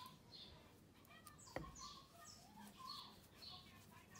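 Near silence, with faint, repeated short high chirps of a small bird and one soft click about one and a half seconds in.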